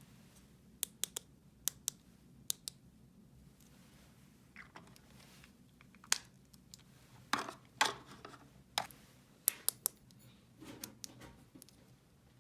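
Small plastic toy pieces being handled and set down: scattered sharp clicks and taps, some in quick pairs, over a faint steady hum.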